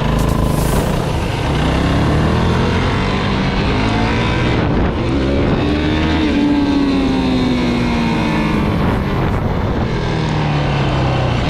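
Off-road bike or quad engine running under way, its pitch climbing and then falling away slowly as the rider works the throttle, over a steady rumble of riding noise.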